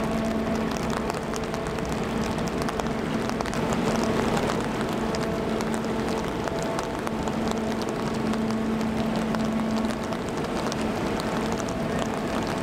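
Rain hitting an umbrella held over the camera: a steady dense hiss of drop impacts. Under it runs a steady low hum from the passing freighter Paul R. Tregurtha. The hum drops out briefly about halfway and fades near the end.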